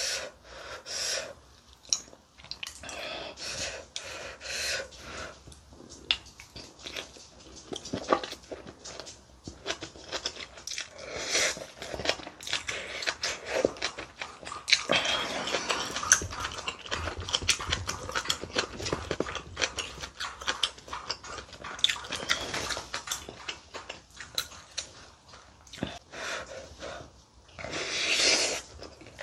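Close-miked chewing and wet mouth sounds of someone eating braised kimchi with rice: irregular smacks and clicks of biting and chewing. A louder slurp comes near the end as a strand of kimchi is drawn into the mouth.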